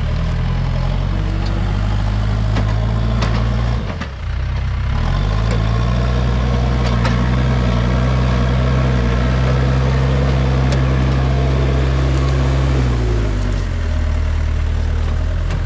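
Backhoe engine running loud and steady, dipping briefly about four seconds in, then revving up and holding higher revs under work before settling back down near the end. Scattered sharp knocks and cracks sound over it.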